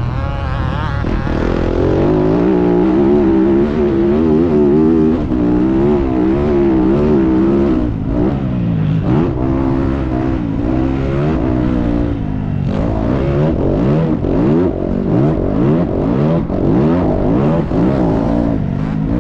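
Motocross dirt bike engine being ridden hard, its pitch rising and falling with the throttle. It holds a fairly even high pitch for the first several seconds, then climbs in repeated quick rises as it revs up through the gears.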